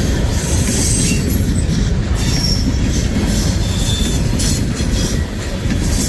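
Freight train's cars rolling past, with a steady rumble of wheels on rail and brief high flange squeals from the wheels, one about two and a half seconds in and another about four seconds in.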